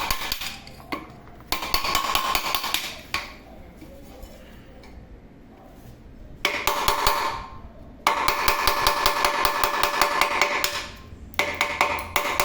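Rapid metal-on-metal hammering in several bursts of one to three seconds, the metal ringing under the blows: the rivets of a broken pressure-cooker handle support being knocked out.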